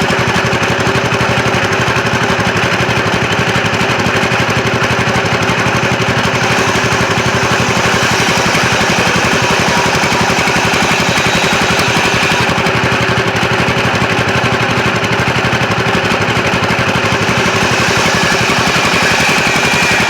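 Sawmill machinery running steadily with a fast, even rattle.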